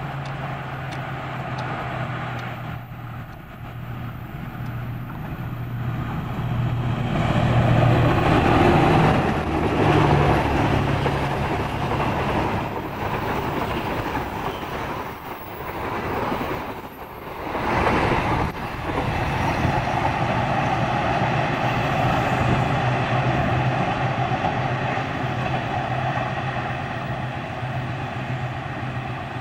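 Diesel-hauled passenger trains passing: a steady low engine drone with the rumble of wheels on the rails. It grows louder about seven seconds in as the train nears, dips briefly past the middle, then holds steady as the coaches run by.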